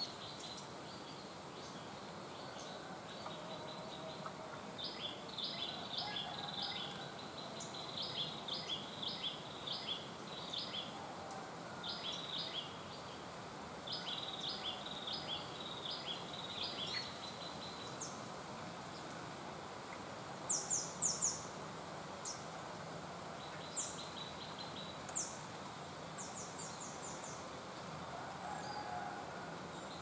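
Birds chirping. First come repeated phrases of quick chirps, strung together for about twelve seconds, then several sharp, higher-pitched chips in the second half. A steady outdoor hiss runs underneath.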